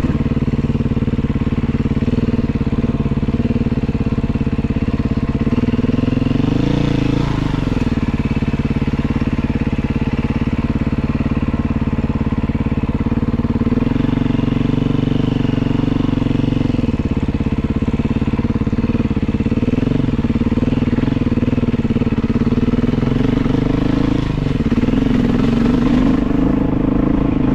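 Beta 500 enduro motorcycle's single-cylinder four-stroke engine running as the bike is ridden, its pitch rising and falling with the throttle, with the clearest rises about seven seconds in, around fifteen seconds, and near the end.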